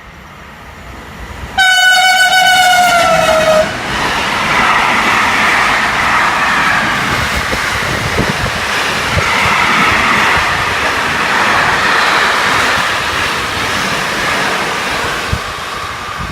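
Train horn sounding for about two seconds, dropping in pitch near its end as the train comes past. The train then rushes by with a loud, steady rumble of wheels on rail that continues to the end.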